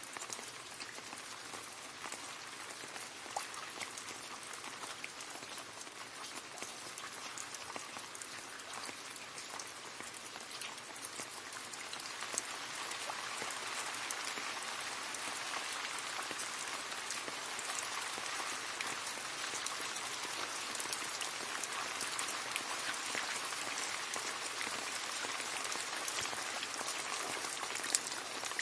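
Steady rain splashing into a puddle: a dense patter of drops with scattered sharper splashes, growing a little heavier about halfway through.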